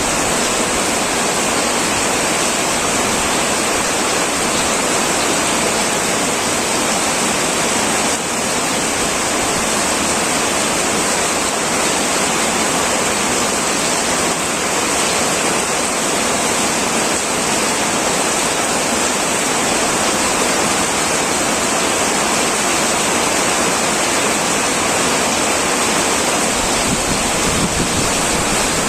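Heavy rain on a metal roof: a loud, steady, dense hiss without lulls.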